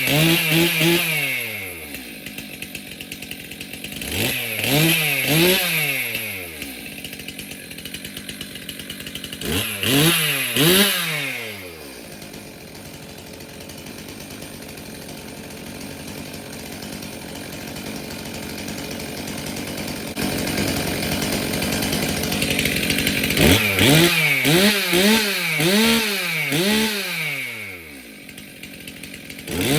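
Stihl MS362 M-Tronic chainsaw's two-stroke engine running, after a new fuel solenoid and fuel filter. The throttle is blipped up and back down several times, with steady idling between blips. Near the end comes a quick run of repeated revs.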